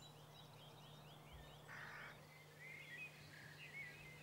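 Faint birdsong: a quick run of about eight repeated falling notes, then scattered short chirps, over a low steady hum.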